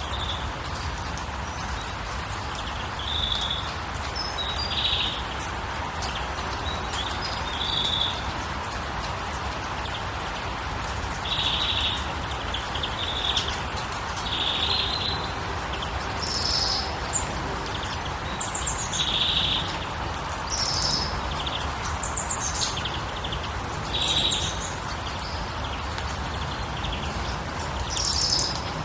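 Small birds chirping in short, repeated calls every second or two, over a steady rushing hiss.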